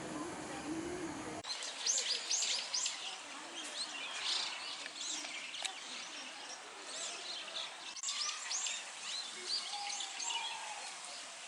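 Small birds chirping, many short, quick high calls overlapping, starting abruptly about a second and a half in.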